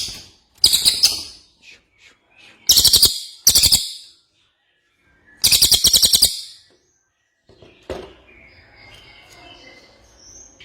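Cililin songbird singing loud bursts of rapid, repeated high notes, several in a row, each under a second long, then softer twittering near the end.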